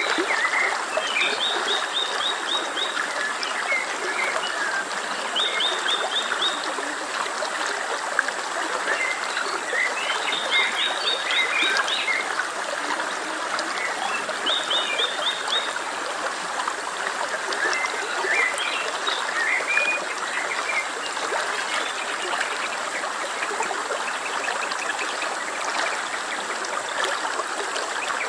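Steady running stream with water trickling. Short, rapid high trills come every four or five seconds over it, along with scattered chirps.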